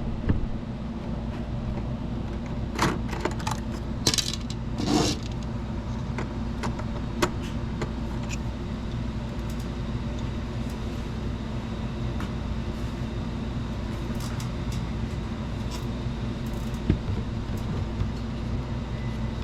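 A screwdriver working the screw terminals of a 3D printer's power supply: small metallic clicks and scrapes, with brief rustling handling noises a few seconds in, over a steady low hum.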